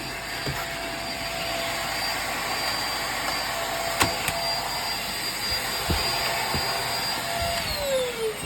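Hoover React upright vacuum running with a steady whine, with a few sharp clicks of debris being picked up. Near the end it is switched off, and the motor's whine falls in pitch as it spins down.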